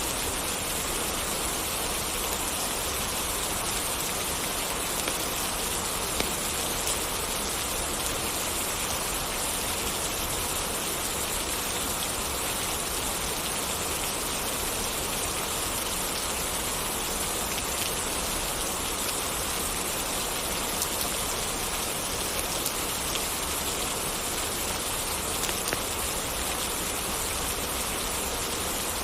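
Steady rain falling, an even hiss of drops hitting surfaces, with a few brief ticks standing out here and there.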